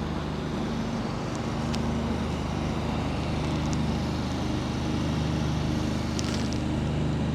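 Steady low hum of an engine running at constant speed, with a few faint ticks.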